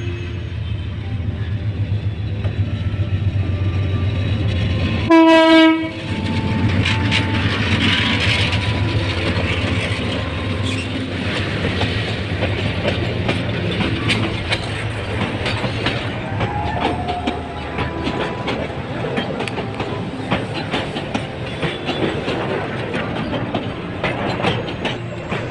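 A Bangladesh Railway diesel locomotive and its train of 30 cars pulling out and rolling past. The engine runs steadily at first, then gives one short, loud horn blast about five seconds in. The wheels clatter over the rail joints as the cars go by for the rest of the time.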